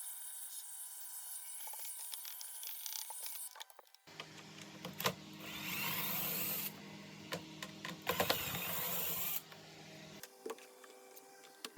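Hand-work on a stick vacuum cleaner: scattered clicks and knocks with scraping. A steady low hum starts suddenly about four seconds in, and a harsher scraping hiss runs between about five and nine seconds.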